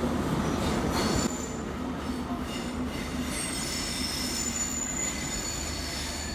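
A train running past on the rails, its wheels squealing with several high-pitched whines over a steady rumble; the noise drops a little after about a second.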